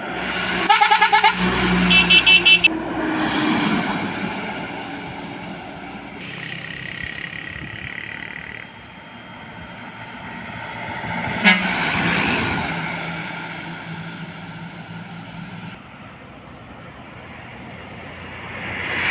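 Passing heavy road traffic: a vehicle horn sounds two quick runs of toots about one and two seconds in, then trucks go by with engine noise that swells and fades twice.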